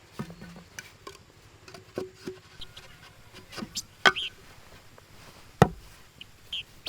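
Sporadic light taps and knocks, as of things being handled, with two sharper knocks about four and five and a half seconds in and a couple of brief high chirps.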